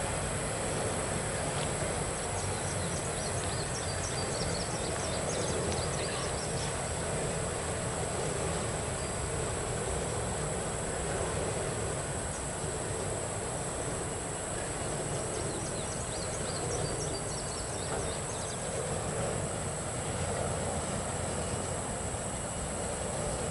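Norfolk Southern double-stack intermodal train rolling steadily past, a continuous low rumble of its cars on the rails, under a steady high-pitched insect drone. Two spells of quick chirps come through, one a few seconds in and another about two-thirds of the way along.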